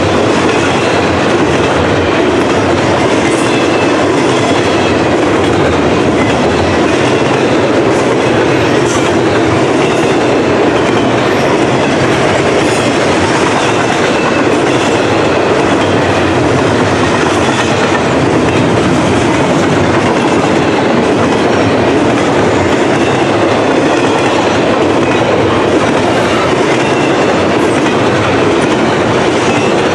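Cars of a freight intermodal train rolling past at speed: a loud, steady rumble of steel wheels on rail that holds unchanged throughout.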